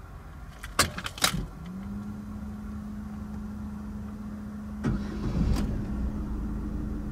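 Clicks from the key in the ignition about a second in, then a steady hum; near five seconds in, the 2014 Haima M3's engine cranks briefly, catches, and settles into a steady idle.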